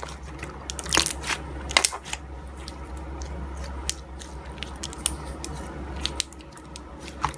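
Slime being worked by hand, giving off irregular crackling clicks and pops, with a few louder snaps about a second and two seconds in. A steady low hum runs underneath.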